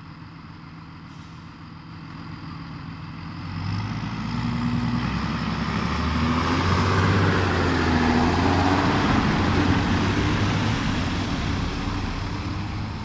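John Deere 7530 tractor's six-cylinder diesel engine running under way, getting louder as it draws near, loudest a little past the middle, then fading as it moves away.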